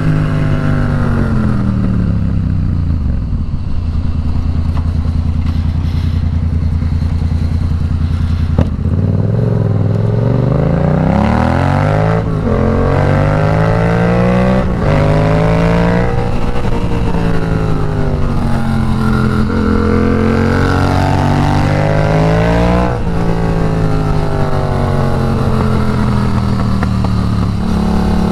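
Yamaha FZ-07's parallel-twin engine under way. The revs fall off over the first few seconds and hold steady for a while. After that they climb and drop again and again as the rider works the throttle and gears through the bends, with wind rush underneath.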